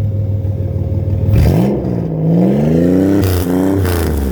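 Turbocharged V6 engine of a minivan running steadily, then revving up under throttle about a second and a half in, its pitch climbing in waves with a couple of brief dips.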